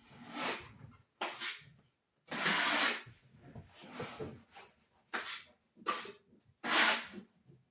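Cleaning a painted kitchen wall: about six short hissing strokes at irregular intervals, the longest one between about two and three seconds in.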